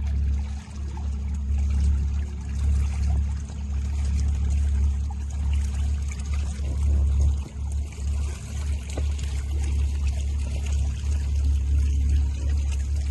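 Water splashing and trickling over a steady low rumble, uneven in level, with two brief dips in the rumble.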